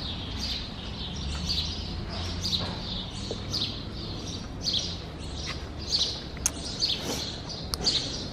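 Small birds chirping over and over, a short high chirp about every half second, over a steady low hum. A few sharp clicks come in the second half.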